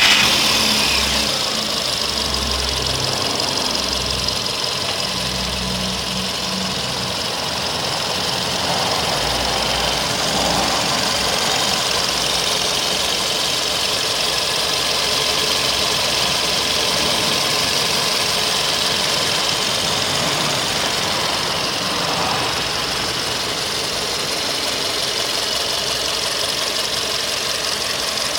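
VW Polo Sedan's CFNA 1.6-litre four-cylinder petrol engine idling warm, just after being started. The level settles over the first couple of seconds into a steady idle.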